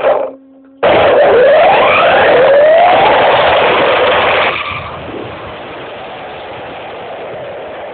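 Radio-controlled monster truck driving, heard through a phone taped to its chassis: loud rattling and tyre noise with the motor whining up in pitch twice as it accelerates, after a brief lull just after the start, then easing to a quieter rolling noise about four and a half seconds in.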